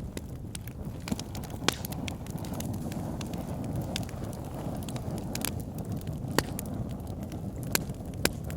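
Wood fire burning in an outdoor fire pit: a steady low rumble of the flames with sharp, irregular crackles and pops, the loudest about a second and a half in and again past the six-second mark.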